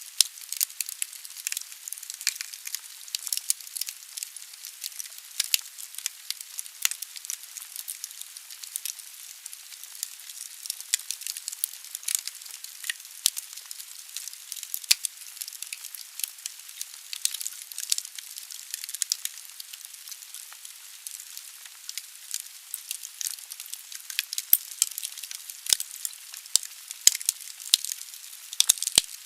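Firewood burning in a fireplace: a steady high hiss with dense, irregular crackling and popping of the logs, a few louder pops near the end.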